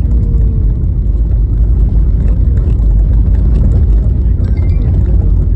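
Car driving on a rough, snow-covered road: a loud, steady low rumble of tyres and wind, with a faint engine tone that falls slightly in pitch about a second in.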